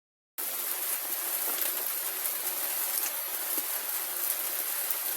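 Steady rushing noise of water, starting abruptly a moment in.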